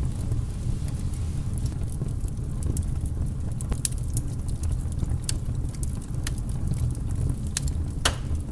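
Wood fire burning in a fireplace: a steady low rumble of flames with scattered sharp crackles and pops, one stronger pop near the end.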